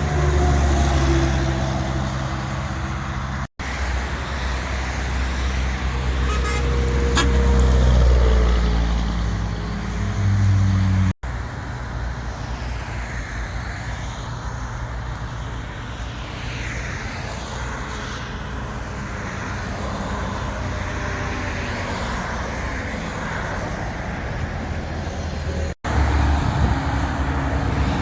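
Heavy trucks driving by on a road, their diesel engines running with strong low engine tones over traffic noise; one engine climbs in pitch as it pulls away. The sound breaks off abruptly three times as separate passes follow one another.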